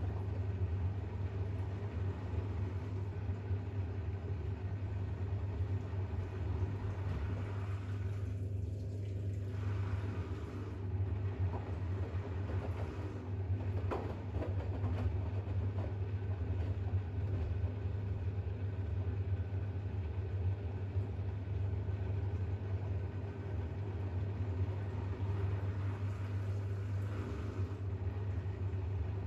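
Bosch WAX32GH1 washing machine in its drain-and-distribute stage before a spin, running with a steady low hum.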